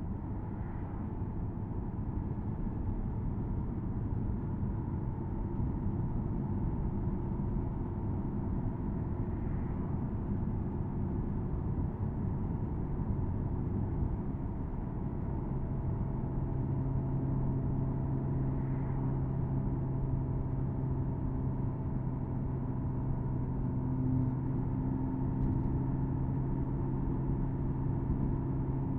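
Porsche Boxster S (987.2) flat-six engine running at cruise over a steady road and tyre rumble, heard from the open-top cabin. About halfway through, a steady, even engine note comes in and holds.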